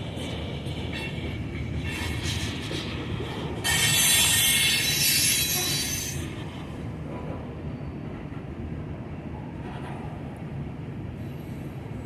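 Freight train cars rolling past with a steady low rumble. About four seconds in, a loud high-pitched wheel squeal sets in for a couple of seconds, then fades back to the rumble.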